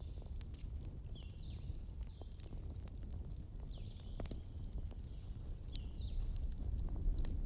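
Wood fire burning, a low steady rumble with scattered sharp crackles and pops of the firewood. Short high chirps that fall in pitch recur several times over it.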